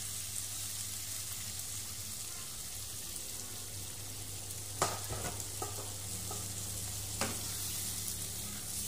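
Beef pieces in curry spice paste sizzling steadily in a frying pan on a gas stove, with two sharp clinks about five and seven seconds in.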